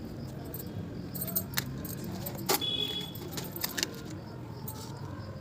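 Scattered light metallic clinks and jingles of small metal objects being handled, with a brief ringing tone about two and a half seconds in.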